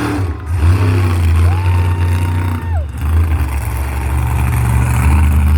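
Large monster-truck engine running with a deep, steady rumble.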